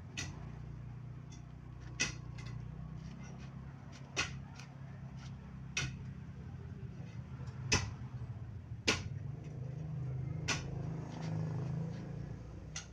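About eight sharp knocks at uneven intervals of one to two seconds, over a steady low hum.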